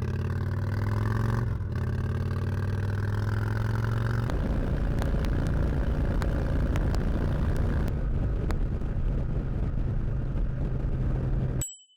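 2017 Indian Chieftain's V-twin engine accelerating, its pitch climbing, with a brief dip about a second and a half in. From about four seconds in, heavy wind and road noise at speed takes over. The sound cuts off abruptly near the end.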